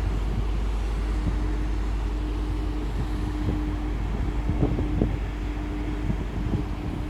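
Wind buffeting the microphone, giving a heavy low rumble with gusts. Under it runs a steady hum at one pitch that breaks off and comes back several times.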